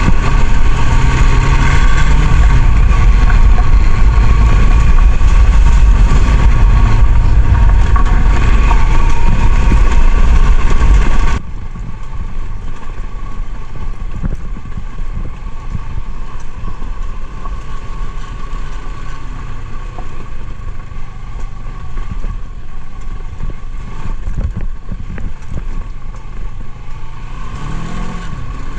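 Motorcycle engine running while riding, loud at first and then abruptly much quieter about eleven seconds in. Near the end the engine pitch rises briefly as it speeds up.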